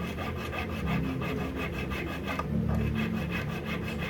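Rapid, even back-and-forth strokes of a small hand file or saw on a piece of metal jewellery, about six strokes a second, as an overlong part is cut and trimmed down.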